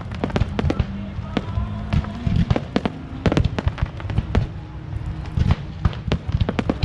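Fireworks going off in a rapid, irregular run of sharp bangs and crackles, several a second, over a steady low rumble.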